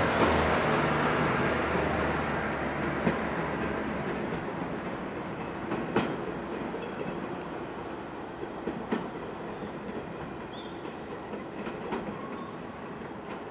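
Electric multiple-unit train running away along the track, its running noise fading steadily as it recedes. Sharp wheel clacks over rail joints come about every three seconds.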